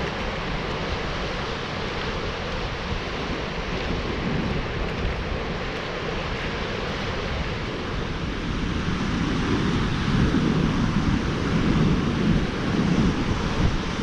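Wind buffeting the microphone over a steady rushing noise, gusting louder in the second half.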